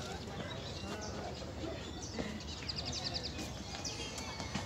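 Small birds chirping, with a quick run of high, evenly spaced chirps about halfway through, over a steady low rumble.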